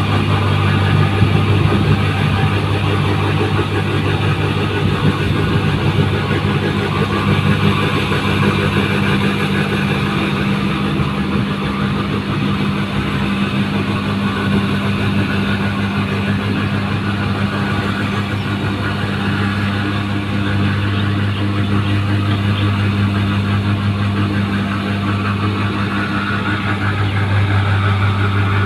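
New Holland 1545 rice combine harvester running steadily: a constant deep engine drone with machinery noise over it.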